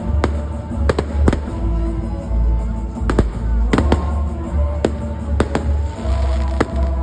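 Large festival bonfire burning, with loud sharp pops and bangs at irregular intervals, about two a second, over music playing.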